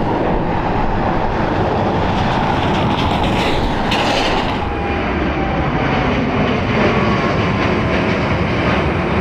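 Airliner jet engines running with a loud, steady rumble and roar, with a rolling, rattling low end.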